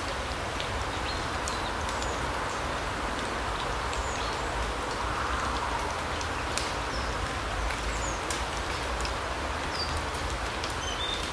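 Forest ambience: a steady hiss with a low rumble underneath, scattered short high bird chirps and whistles, and small scattered ticks.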